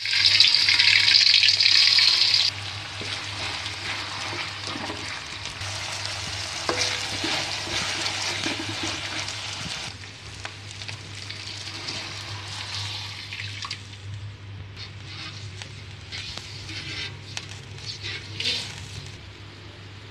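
Ground green spice paste sizzling in hot oil in a wok. The sizzle is loud for the first two and a half seconds, then drops to a quieter sizzle with spatula scraping and stirring, broken by a few abrupt changes where shots are cut together. A steady low hum runs underneath.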